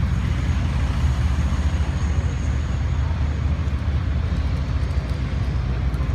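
Large farm tractor's diesel engine running steadily with a deep low rumble. A faint high whine comes in briefly about a second in.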